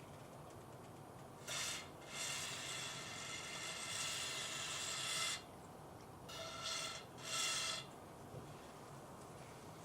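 Lubricant being applied inside a distributor housing before the shaft goes back in: a short burst of hissing, rasping noise, a longer one of about three seconds, then two short ones, each starting and stopping sharply.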